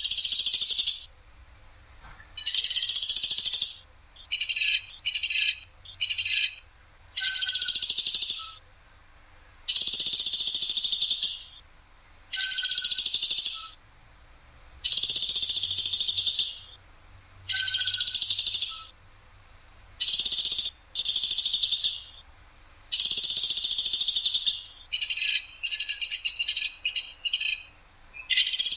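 Platuk sampit songbird calling: loud, sharp, very high trilled bursts, each about a second long, repeated every second or two, some broken into short rapid notes.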